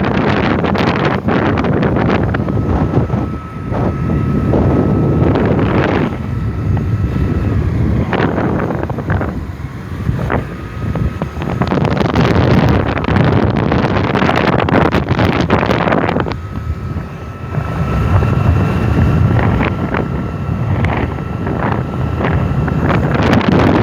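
Wind buffeting the microphone on a moving motor scooter, surging and easing every few seconds, with the scooter's engine running steadily underneath and a faint steady whine coming and going.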